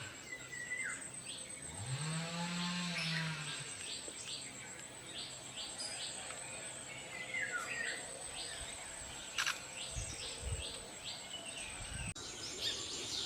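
Outdoor birdsong: small birds giving many short, repeated high chirps over a steady, very high-pitched insect trill. A low call rises and falls once, about two seconds in.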